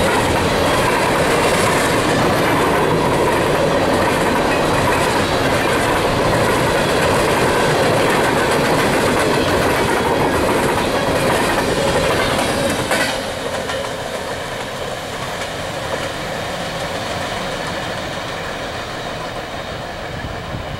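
Empty steel-wheeled coal gondolas rolling past at close range, a steady, loud rolling noise of wheels on rail. About 13 seconds in it drops suddenly to a quieter noise that fades as the train moves away.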